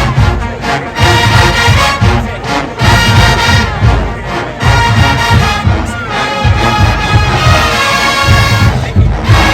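Marching band playing: brass section over a steady, heavy drum beat.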